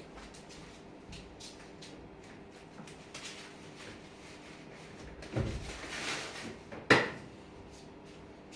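Household handling and clean-up noises: a soft thump about five seconds in, then a single sharp knock about a second later, like a cupboard or drawer being shut.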